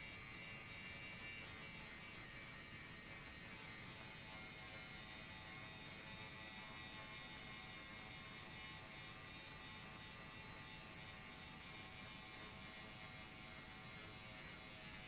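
Power grinder running steadily, grinding a lawn mower blade's cutting edge and bevel to sharpen and thin it. A constant motor whine with a high hiss, unbroken.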